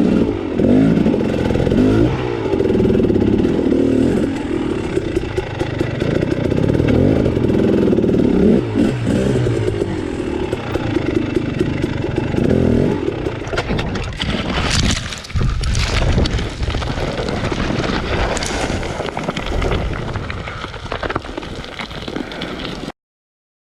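Dirt bike engine running on a rough trail, its pitch rising and falling with the throttle, with scraping and clattering growing louder in the second half. The sound cuts off suddenly near the end.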